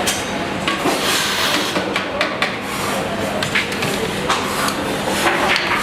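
Irregular knocks, clatter and scraping of hand tools and pipe fittings being handled, with a faint steady hum underneath.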